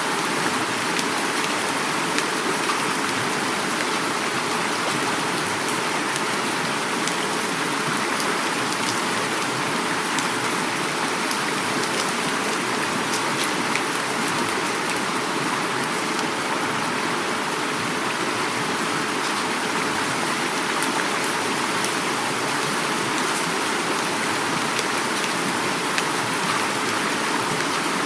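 Heavy rain falling steadily with fine drop impacts, mixed with the continuous rush of flowing river water.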